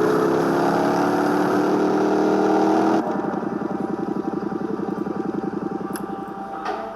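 Motorcycle engine climbing steadily in revs. About three seconds in it cuts abruptly to a lower, steady pulsing beat at low revs.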